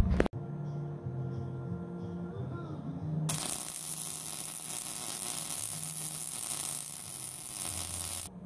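Low electrical hum, then about three seconds in a loud, steady crackling hiss starts suddenly and runs for about five seconds before cutting off: a MIG welder's arc laying a bead on the steel test-stand frame extension.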